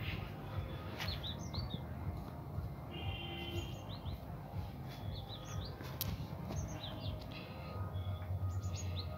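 Small birds chirping outdoors: short, high, quick calls in little groups of two to four, repeating every second or two, with one brief trill about three seconds in, over a steady low background rumble.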